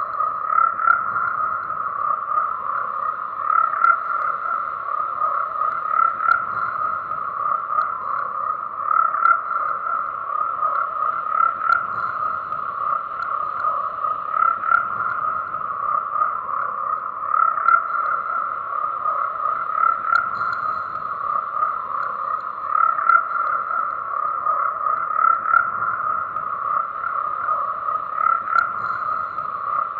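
Chorus of many frogs croaking continuously, a dense overlapping trill that swells a little every couple of seconds.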